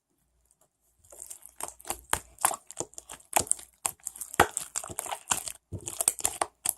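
Stiff slime being stretched and pulled apart by hand, giving a dense run of sharp sticky crackles and clicks that starts about a second in.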